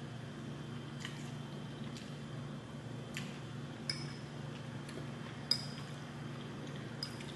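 Metal fork clinking against a plate while eating, a few separate sharp clinks with a short ring, the loudest about two-thirds of the way through, over a steady low hum.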